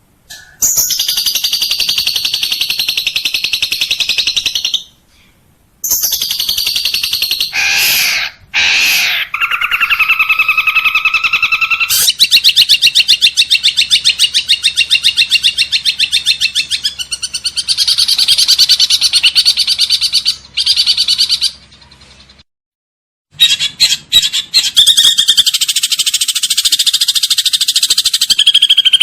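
Recorded songbird song of several species spliced one after another, as used to tutor a caged shrike: high, fast chattering trills and chirps with abrupt cuts and two short silent gaps, including a long, rapid, evenly pulsed trill in the middle.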